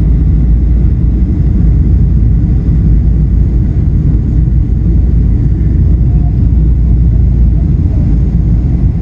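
Steady low rumble of airliner cabin noise, the engines and airflow heard from inside the passenger cabin.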